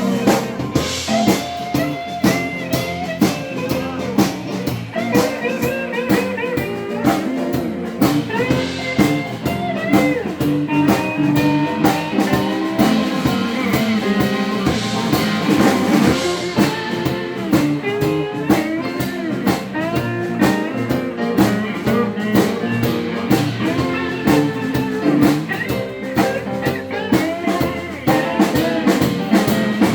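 Instrumental break in a blues-rock song: a lead guitar plays bending melodic lines over a steady drum-kit beat and the rest of the band.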